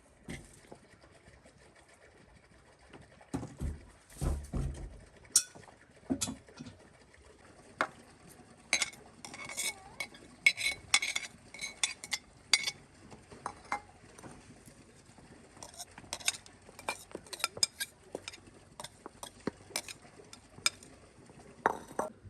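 Metal cooking utensils and dishes clinking and knocking against each other in an irregular run of short, sharp clinks, with a few heavier low knocks about three to five seconds in.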